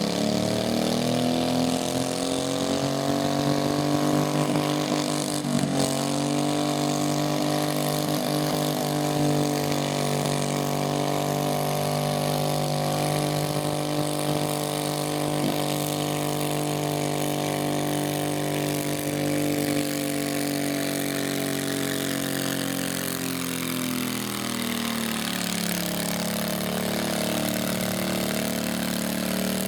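Garden tractor engine running steadily. Its pitch slowly sags over several seconds past the middle, then picks up a little near the end.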